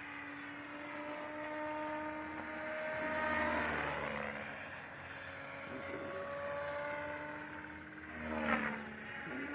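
Align T-Rex 500X electric radio-controlled helicopter flying, its motor and rotor whine shifting in pitch as it swoops past, loudest about three and a half seconds in and again near the end. It is being test-flown on a new pitch curve.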